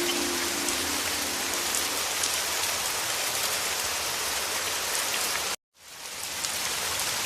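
Heavy rain falling, a dense, even hiss of drops. Soft, sustained low music tones fade out about two seconds in. About five and a half seconds in, the sound cuts out for a moment and then fades back up.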